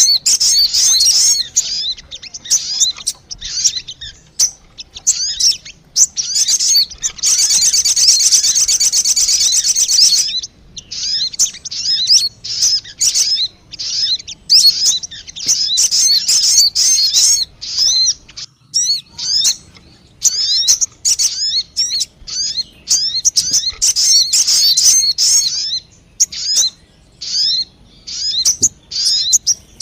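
Sogon bird song played as a lure call: rapid high chirps and twittering phrases in quick succession, with a dense, buzzing trill lasting about three seconds near the start.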